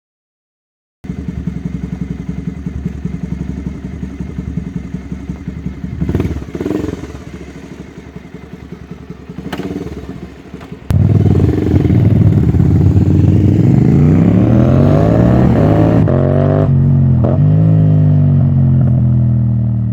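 Motorcycle engine starting abruptly about a second in and running, then much louder from about eleven seconds in, its pitch rising and falling as it revs.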